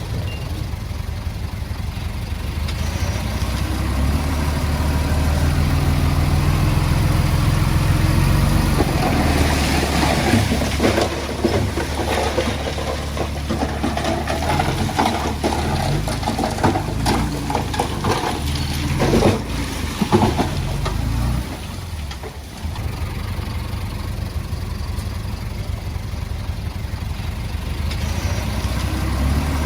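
Komatsu D20A bulldozer's diesel engine running as it works, its pitch stepping up and down, with a run of clanks and knocks through the middle.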